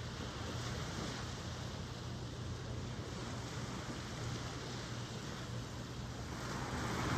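Ocean surf washing steadily over a constant low rumble, with a wave building louder near the end.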